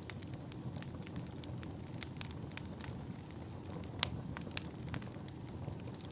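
Wood fire burning in a fireplace, with a steady low rush of flame and frequent sharp crackles and pops, the loudest pop about four seconds in.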